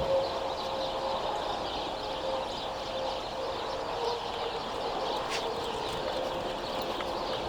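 Birds chirping outdoors over a steady hum.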